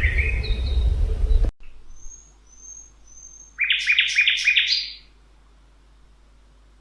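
Songbirds calling. Over a loud low rumble a bird chirps, and the rumble cuts off abruptly about a second and a half in. Three short, thin, high whistles follow, then a quick burst of about five chirped notes.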